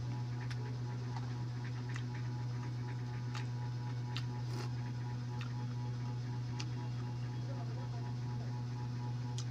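A steady low electrical hum, with scattered small clicks and taps, about one every half second to second.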